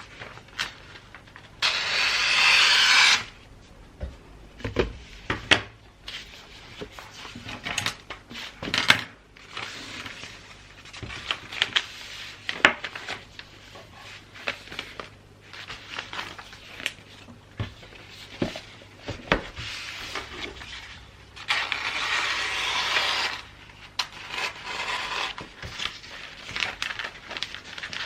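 Gift wrapping being handled close up: paper rustling and creasing with small taps and clicks, broken by two longer swishing rips of a second or two, about two seconds in and again past twenty seconds.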